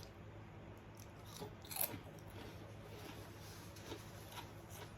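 A person chewing food close to the microphone, with a few soft crunches and mouth clicks, the clearest a little under two seconds in.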